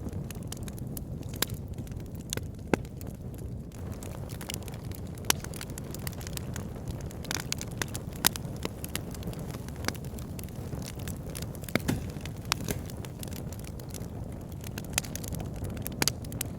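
Wood fire in a log burner crackling, with many sharp irregular pops and snaps over a steady low rumble of flames.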